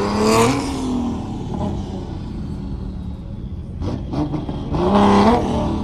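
A car engine idling steadily and revved twice in short blips, the pitch rising then falling each time: once at the start and again about five seconds in.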